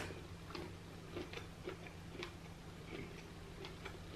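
Faint, irregular soft mouth clicks of someone chewing crab meat, a few a second, over a steady low hum.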